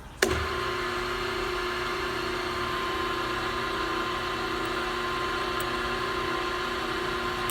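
Power drill starting up with a click and then running at a steady speed while it drills out a stripped clutch bell screw on a nitro engine, a constant pitched motor hum.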